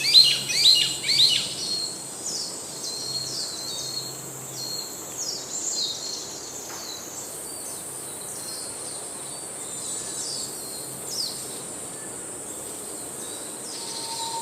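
Small birds chirping in quick, downward-sweeping notes, a dense burst in the first couple of seconds and then scattered calls, over a steady high insect hum.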